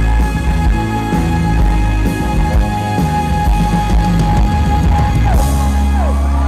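A live band playing the closing bars of a song: a long held note over bass and chords. About five seconds in there is a crash and a falling glide, and then a final chord is held and rings on.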